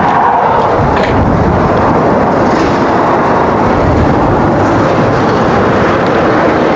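Steady running noise of a bus: a continuous low rumble and hiss with no distinct beats or changes.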